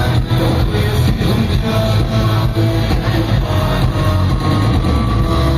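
Loud live rock music: a band playing, with guitars over a steady drum beat.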